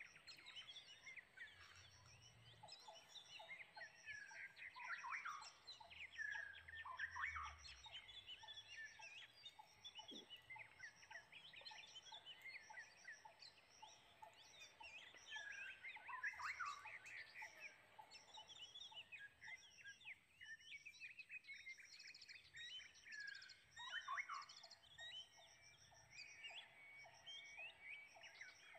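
Several wild birds calling and chirping, a dense mix of quick rising and falling calls and trills, with a high pulsing call repeating steadily. Near the end a lower call of even, rapid pulses joins in.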